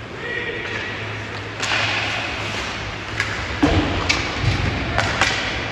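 Hockey game in an arena: sharp knocks and thuds of stick, puck and boards, several in a row from about halfway in, over a steady hum and general rink noise.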